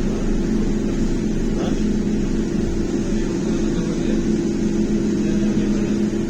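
BKM-321 trolleybus heard from inside the cabin: a steady electrical hum holding two even tones over a low running rumble.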